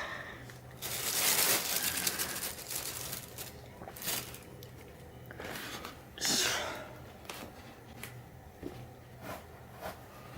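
Rustling and crinkling handling noise in several bursts, the longest lasting a couple of seconds, with a faint steady hum underneath.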